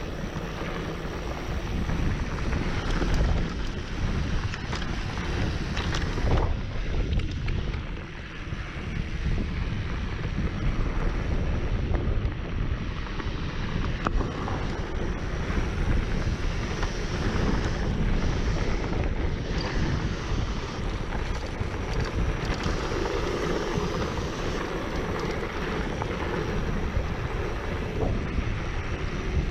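Wind rushing over the microphone of a mountain bike in motion, with rolling tyre and trail noise and scattered light rattles underneath.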